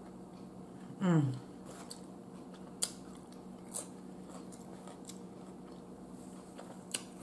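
A person chewing a soft bread sandwich up close, with a few wet mouth clicks. About a second in comes a short appreciative "mmm" that falls in pitch, and a faint steady hum runs underneath.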